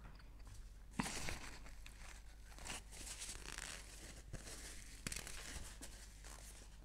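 Close-miked chewing of food, crackly and crunchy, with a sharp click about a second in and another about five seconds in.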